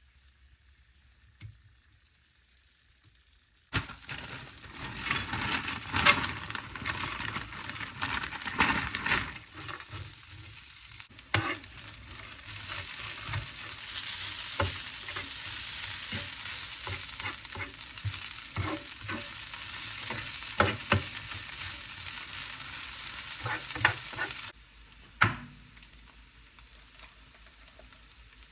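Hash browns sizzling as they fry, with repeated clicks and scrapes of a utensil turning them. The sizzle starts suddenly a few seconds in and cuts off abruptly near the end.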